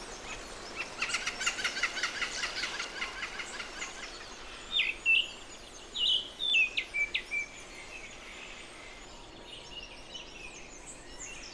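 Wild forest birds calling: first a fast chattering run of notes, then sharp whistled calls repeated several times.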